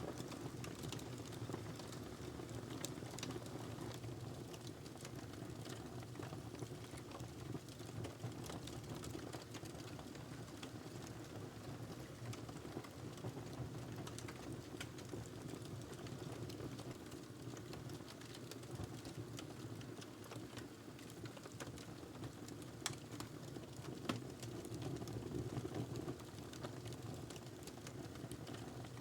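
Wood fire crackling in a fireplace: scattered small crackles and snaps over a steady low rumble of flames, with two sharper pops about three-quarters of the way through.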